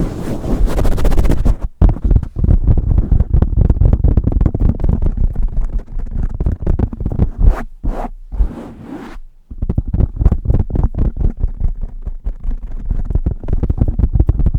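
Blue Yeti microphone being handled fast and roughly right at the capsule: a dense rubbing noise at first, then rapid scratching and tapping strokes, several a second, with a brief pause about two-thirds of the way through.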